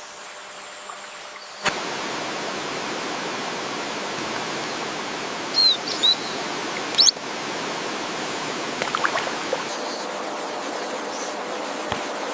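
Steady rush of flowing water, coming in abruptly a couple of seconds in after a quieter stretch with a faint hum. Over it, a few short bird calls: two falling chirps about halfway, a sharp call a second later, and a few faint calls later on.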